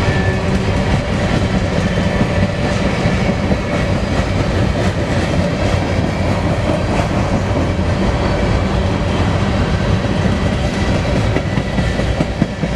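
Freight train of grain hopper cars rolling past close by: a loud, steady rumble of wheels on rail with clickety-clack over the rail joints and faint thin squealing tones.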